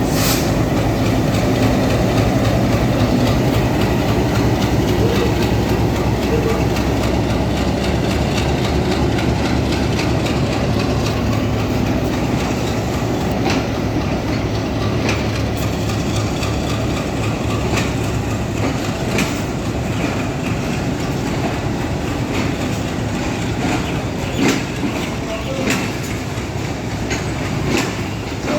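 Intercity passenger train running on the track: a steady rumble with the wheels clicking over rail joints, the clicks spaced a second or two apart in the second half.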